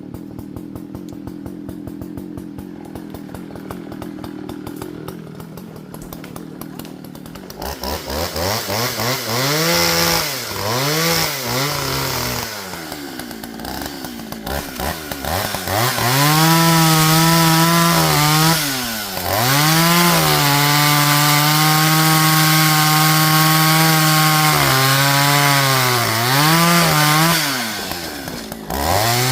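Partner Farmer two-stroke chainsaw idling, then blipped up and down a few times and held at high revs for two long stretches of several seconds each, with a short dip between them. It drops back to idle near the end with a final blip.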